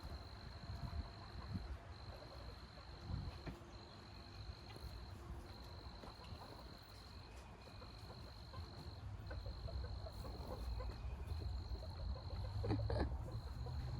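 An insect trilling on one high steady note, in repeated pulses of about a second and a half with short breaks, over a faint low rumble.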